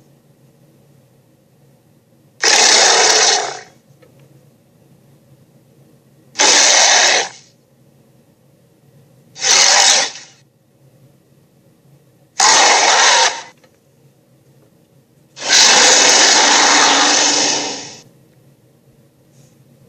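Recorded cartoon creature roar sound effects played back one after another: five harsh roars about three seconds apart, the last one longer.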